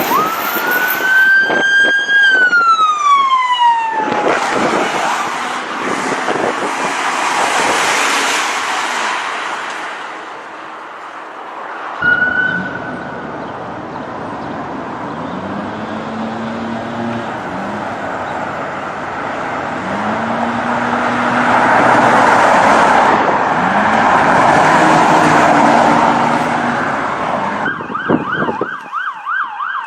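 Police siren wailing, one long rise then fall in the first few seconds, followed by vehicle engine and road noise with the engine revving up and down. Near the end the siren switches to a fast yelp.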